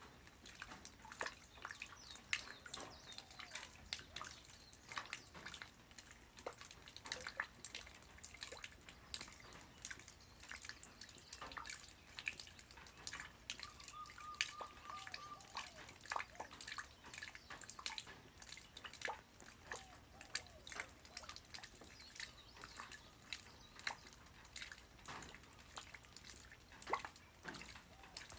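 Light rain falling on the ground: many irregular drops ticking and dripping several times a second over a soft hiss.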